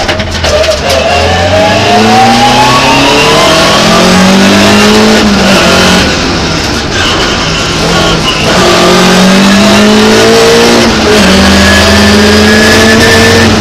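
Opel Ascona rally car's four-cylinder engine, heard from inside the cabin, accelerating hard: the engine note climbs and drops back with each upshift, several times in a row.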